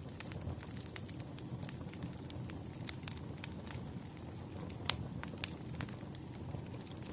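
Wood fire burning, with irregular crackles and a sharper pop about five seconds in over a steady low rumble of the flames.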